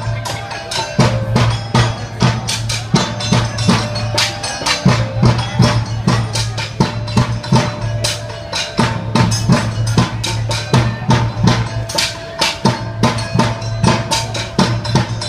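Rampak ensemble drumming: many drums struck together in fast, dense patterns, with deep drum hits recurring throughout and a few held pitched notes above.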